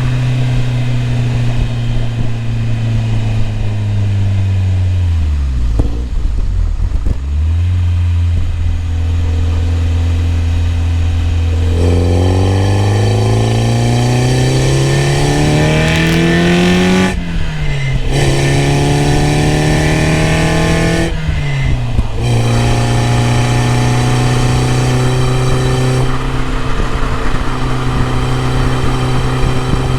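BMW E30 M3's S14 four-cylinder engine under way. The revs sag and dip twice, then climb steadily through two gears, with upshifts around halfway and a few seconds later, before holding steady at cruising revs.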